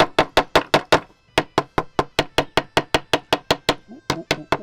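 A pocket-knife handle tapping the bark of a freshly cut linden shoot in quick, even knocks, about five a second, with a short break about a second in. The tapping loosens the sap-moist bark so it can be slid off the wood in one piece to make a whistle.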